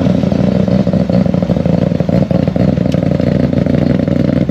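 A car engine running close by at a steady idle, loud and even, with a fast, regular throb.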